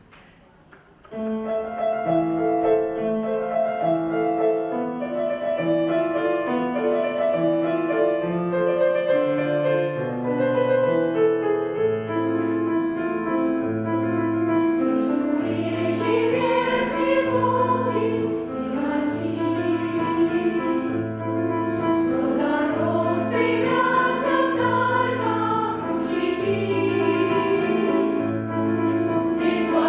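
A children's choir singing with instrumental accompaniment. The instrumental introduction starts about a second in, and the choir's voices come in about halfway through.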